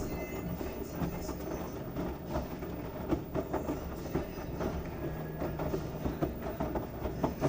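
LG washing machine drum turning a load of wet towels: a steady rumble with irregular knocks and clunks.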